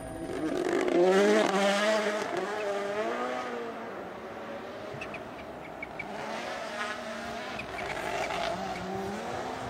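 Rally car engine passing at full effort, loudest about a second in, its revs rising and falling as it fades; the engine note swells again near the end.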